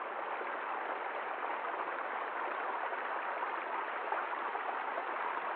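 Forest stream: water running and babbling steadily over stones.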